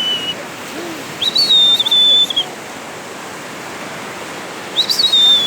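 A high, clear whistled note, each about a second long: it jumps up sharply, then holds and sinks slightly in pitch. It sounds about a second in and again near the end, over a steady rush of water.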